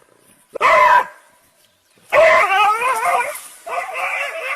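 A dog vocalizing in three drawn-out, wavering whine-howls, the last one still going at the end.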